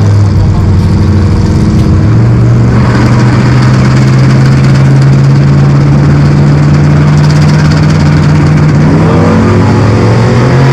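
Vehicle engine held at high revs, very loud. Its pitch steps up about two seconds in, creeps higher, and climbs again near the end as it is revved further.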